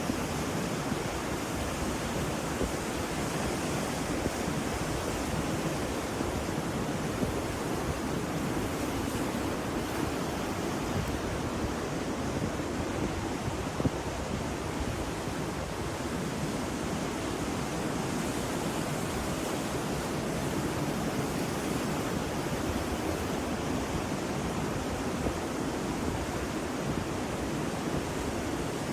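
Ocean surf: a steady, even wash of waves.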